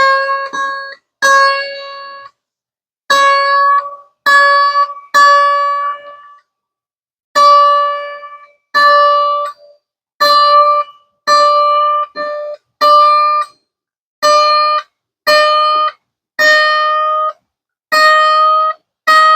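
A Washburn mandolin's high string plucked again and again, one note at a time, while it is tuned up: the pitch rises slowly from note to note, with two short pauses between plucks.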